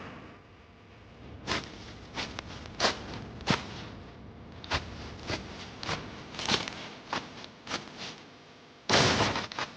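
A series of irregular sharp clicks and knocks, about a dozen, spaced unevenly, followed near the end by a louder burst of noise lasting nearly a second.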